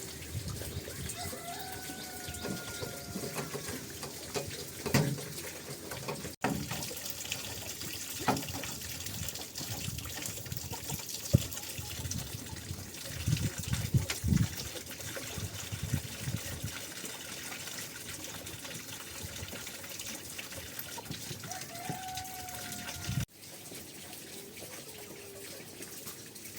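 Running water, steady like a tap or hose pouring, with scattered light knocks.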